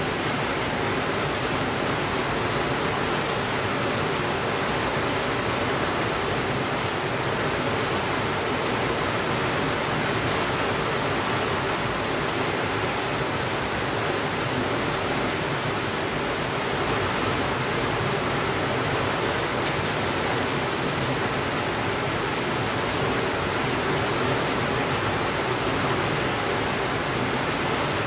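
Steady rainfall, an unbroken even hiss with a few faint ticks now and then.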